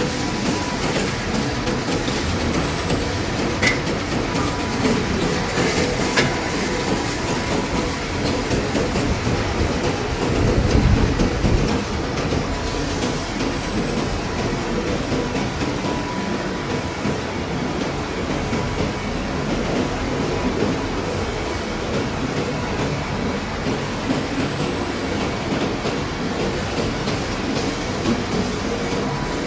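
Industrial scrap-processing machinery running steadily, a continuous rumble and rattle with a faint steady whine. Sharp clicks come a few seconds in, and there is a louder low surge of rumbling about ten seconds in.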